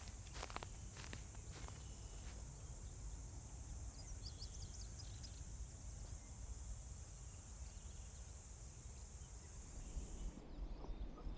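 Insects buzzing in a steady high-pitched chorus that cuts off suddenly near the end, with a few light clicks at the start and a brief bird chirping about four seconds in.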